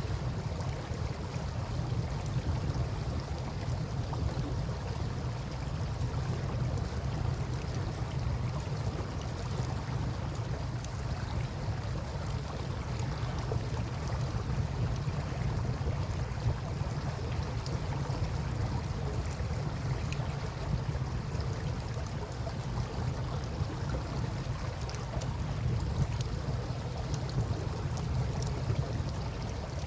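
Campfire crackling with faint, scattered pops over the steady rush of flowing river water, which carries a constant low rumble.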